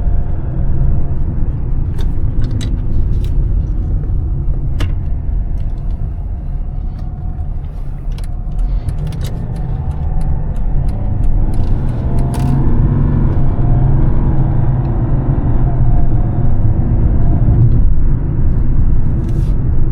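Mercedes-Benz E320 CDI diesel engine and road noise while driving: a steady low rumble that grows louder from about halfway through as the engine pulls harder. Scattered light clicks in the first half.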